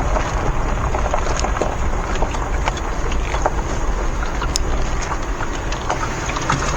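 A vehicle rolling slowly along a dirt and gravel forest road: a steady low road rumble with small stones crackling and popping under the tyres.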